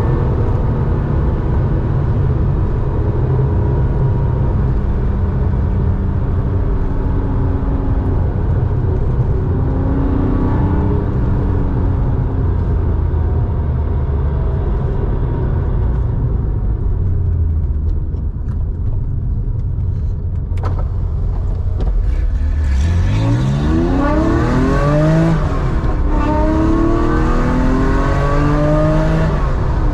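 Air-cooled flat-six of a 1987 Porsche 911, 3.4-litre, exhausting through a two-in, one-out muffler, running steadily while driving. A little past two-thirds in it accelerates hard: its pitch climbs sharply, drops back at a gearshift and climbs again.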